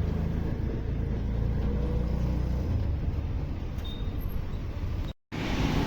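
Auto-rickshaw engine running with road rumble, heard from inside the moving rickshaw. There is a brief dropout to silence about five seconds in.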